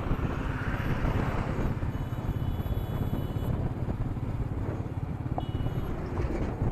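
Royal Enfield Meteor 350's single-cylinder engine running steadily on the move, a fast low pulsing under a haze of wind noise, picked up by an action camera's built-in microphone.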